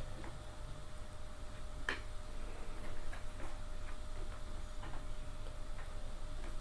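Scattered light clicks and taps of a hand tool and screw against the chair's metal fittings while a screw is being lined up, with one sharper click about two seconds in. A faint steady hum runs underneath.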